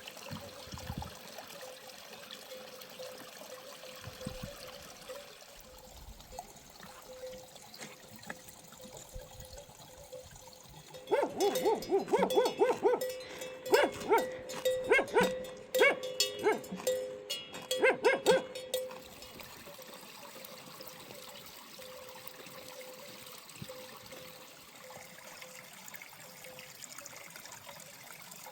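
Water trickling steadily, with a dog barking in a quick run of barks for about eight seconds in the middle.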